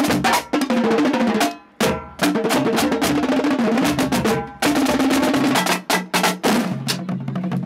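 High school marching drumline playing in a drum-off: rapid snare strokes and pitched tenor and bass drum hits, breaking off briefly twice, about one and a half seconds in and again after four and a half seconds.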